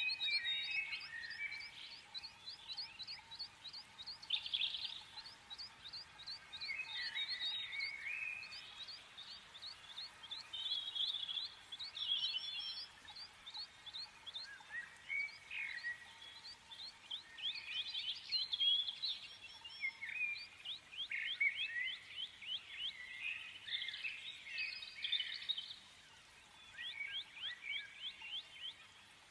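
Small birds chirping, several at once, with fast runs of short high notes overlapping one another and a brief lull near the end.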